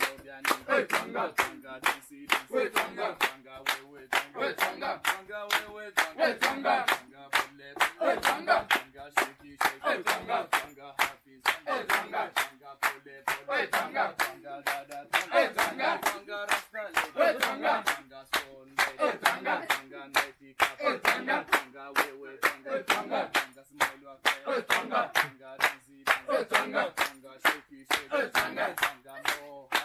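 A group singing and chanting in Swahili over a steady percussive beat of about two sharp strokes a second.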